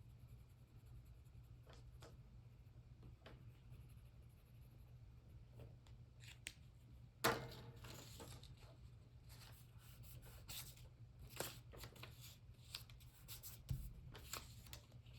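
Faint scratching and rustling of paper being worked by hand during collage colouring, with a single sharper click a little past halfway and a run of small rustles in the second half.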